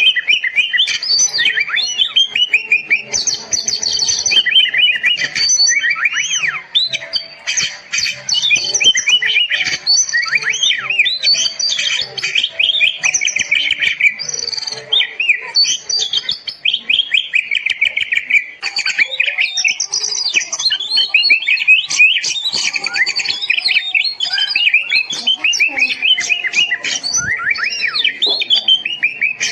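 Oriental magpie-robin (kacer) singing continuously and loudly: a fast, varied stream of whistled phrases, sweeping notes and rapid trills with hardly a pause.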